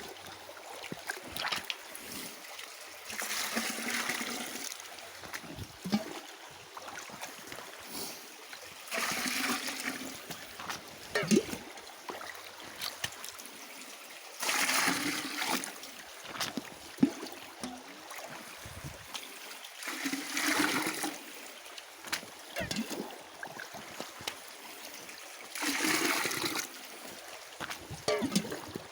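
Water being scooped up in a pot and poured into a bucket, five splashing pours about five seconds apart, over a faint, steady trickle of running water.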